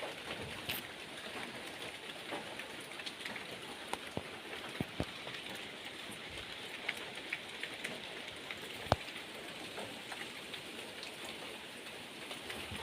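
Steady rain falling, with scattered drops ticking on nearby surfaces and one sharper knock about nine seconds in.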